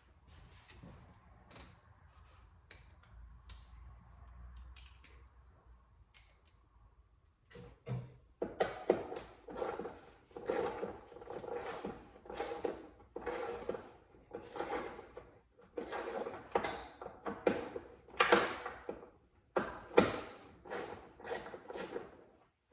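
Hand-tool work on a car's blower motor resistor as it is unscrewed and pulled out: a few faint clicks at first, then from about a third of the way in, irregular knocks and short rattling clatters about once a second.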